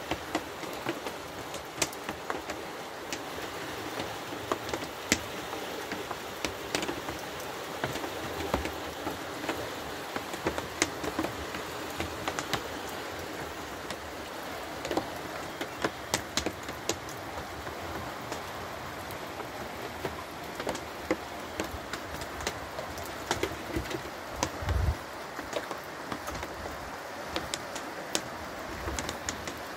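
Steady rain falling, with frequent sharp ticks of single drops landing close by.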